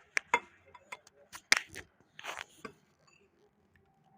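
Eating sounds: a quick, uneven run of sharp clicks and taps, about eight in under three seconds, with a short scraping rush a little over two seconds in, then only faint sound.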